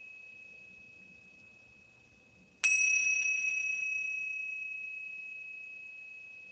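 Meditation bell struck once, about two and a half seconds in. It rings on one clear high tone with a fainter upper overtone and fades slowly, while the ring of the previous strike is still dying away beforehand. The bell marks the close of the meditation.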